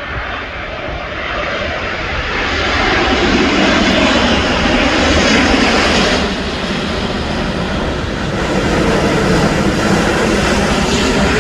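Singapore Airlines Airbus A350-900 jet flying close by, its Rolls-Royce Trent XWB engines making a loud, even roar. The roar swells to a peak about halfway through, eases a little, then builds again near the end.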